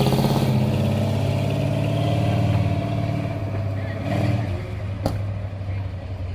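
Car engine running, its sound slowly fading as the car moves away, with a single sharp click about five seconds in.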